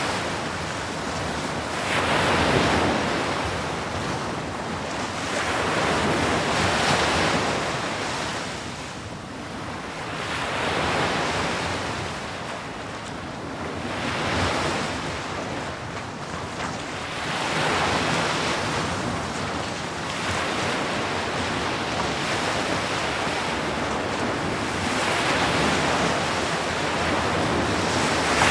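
Ocean waves breaking on a shore, the surf swelling and ebbing every few seconds in a steady rhythm.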